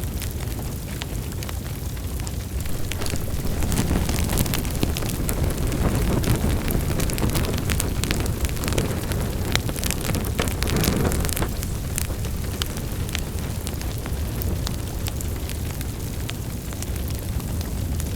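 Wood fire burning in a fireplace: a steady low rumble with frequent sharp, irregular crackles and pops, a little denser in the middle.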